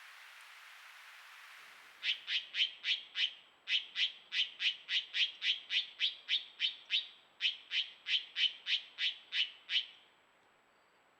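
A bird calling a long series of short, sharp notes, about three a second, in three runs with brief pauses. The calls start about two seconds in and stop about ten seconds in.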